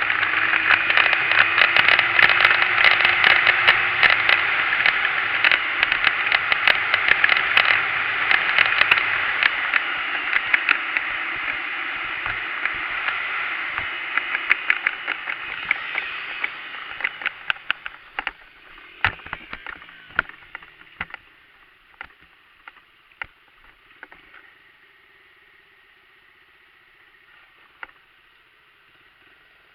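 Dirt bike engine running with a clatter of rapid clicks. It fades away over the middle of the stretch and dies out to a faint background by about three-quarters through, leaving a few scattered clicks.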